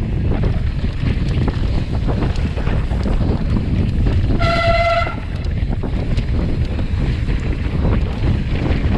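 Heavy wind rumble buffeting the microphone, with a single high squeal lasting under a second about halfway through.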